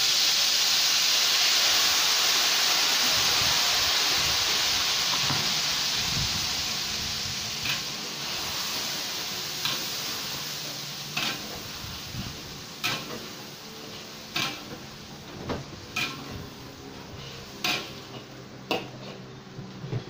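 Ground chilli paste hitting hot oil in a wok with a sudden, loud sizzle that slowly dies down. From about seven seconds in, a spatula scrapes and knocks against the wok at irregular intervals as the paste is stirred and sautéed.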